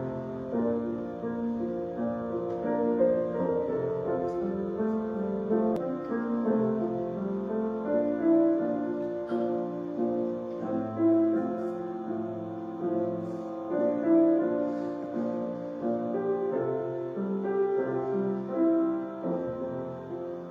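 Slow piano music: a melody of held notes over chords.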